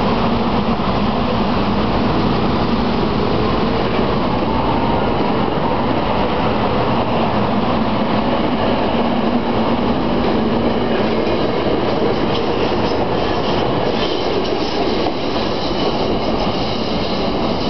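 SEPTA Silverliner IV electric multiple-unit railcars pulling out and running past close by: a steady, loud rumble of steel wheels on rail with a faint rising motor whine. Thin high tones join in during the last few seconds as the train moves off.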